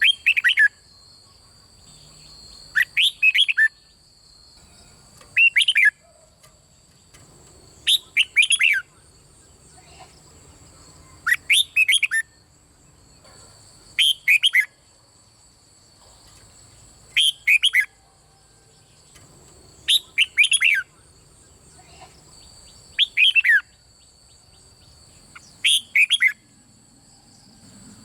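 A red-whiskered bulbul sings short, loud song phrases about every three seconds, ten in all. Each phrase is a quick run of two or three whistled notes falling in pitch. Two faint, steady high-pitched tones hum underneath.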